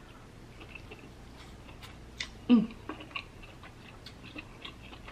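A person chewing a mouthful of king crab meat close to the microphone: soft wet mouth clicks and smacks scattered through, with one short, louder vocal sound about two and a half seconds in.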